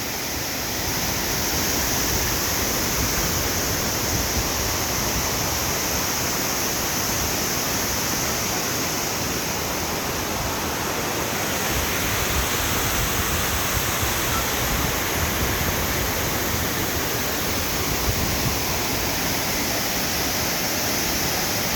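Waterfall pouring down a rock flume: a steady, unbroken rush of falling water.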